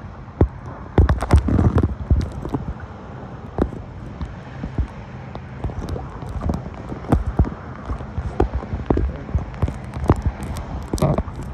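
Irregular knocks and bumps, a dense cluster about a second in, over a steady low rumble.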